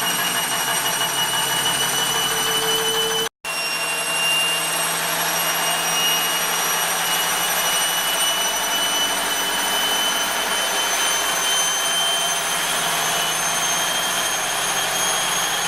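Bosch WFL2462 front-loading washing machine on its spin cycle, its motor whine rising slowly in pitch as the drum speeds up, with a brief dropout about three seconds in. The drum is badly unbalanced and bangs during spin because its shock absorbers are worn.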